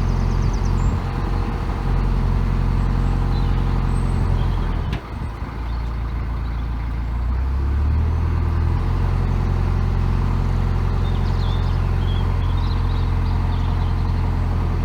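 Narrowboat's inboard diesel engine running steadily under way. Its note dips briefly about five seconds in, then picks up again, slightly higher, a few seconds later.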